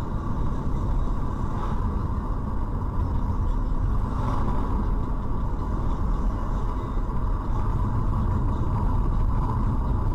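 Steady rumble of a moving car: engine and road noise recorded by a dashcam.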